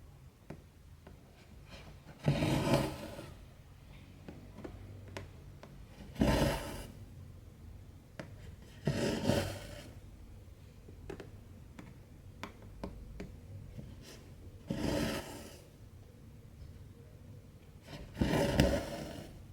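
Cotton embroidery thread pulled through 14-count cross-stitch fabric: five short rasping pulls a few seconds apart, with faint ticks in between.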